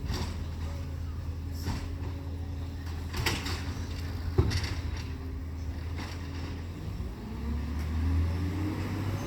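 Garbage truck's diesel engine running steadily, with several sharp knocks over the first half, then the engine note rises about seven seconds in as it revs.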